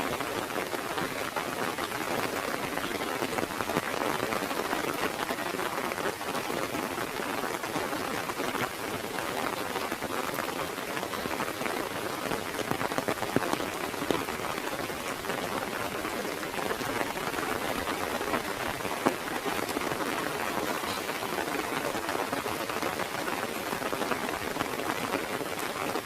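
Heavy rain falling steadily, a dense patter of drops on an umbrella overhead.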